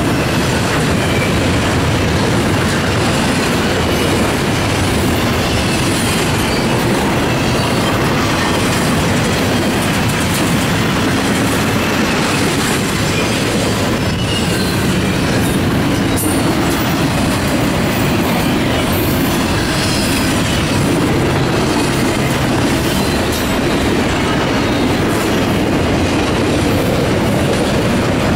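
Double-stack intermodal container freight train passing close by at speed. It makes a loud, steady rumble and clatter of steel wheels on the rails.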